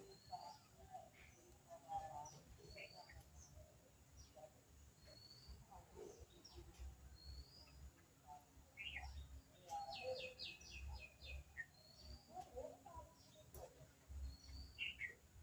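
Faint birdsong: a short, high, rising chirp repeated about every second and a half, with a quick run of about six high notes about ten seconds in.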